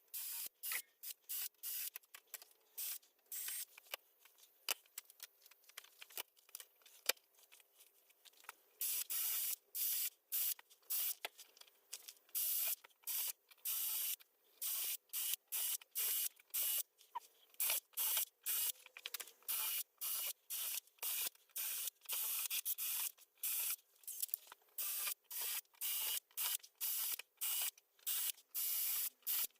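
Wooden boat window frames being hand-sanded with sandpaper: a run of short rasping strokes, sparse and uneven at first, then regular at about two a second from about nine seconds in.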